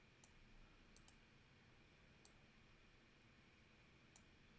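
Near silence with a few faint computer mouse clicks, scattered and sometimes in quick pairs.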